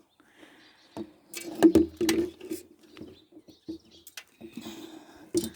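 A series of knocks and handling sounds from the birch-sap collecting container being taken down and emptied, loudest between about one and three seconds in. Birds chirp faintly in the background.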